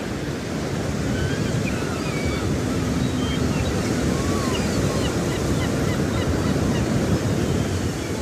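A flock of budgerigars chirping and warbling, many short quick calls overlapping, over a steady rushing noise.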